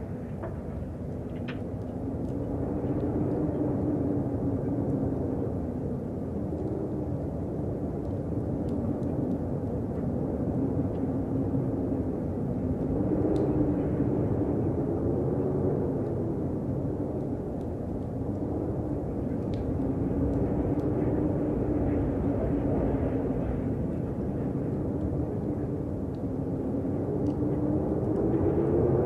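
Wind blowing, a steady low rush with a faint howling tone that wavers up and down in pitch, swelling and easing every few seconds.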